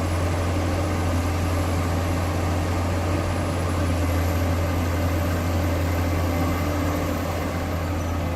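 Heavy diesel engine of earthmoving machinery, an excavator or dump truck, running steadily with a constant low hum.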